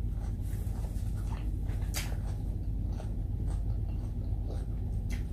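Chewing and wet mouth noises of a person eating rice and food by hand, with scattered small clicks and smacks, over a steady low hum.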